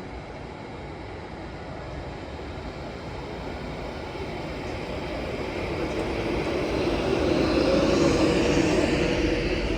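A train approaching and passing at speed, its rumble and rushing noise building steadily to a peak about eight seconds in, then easing slightly.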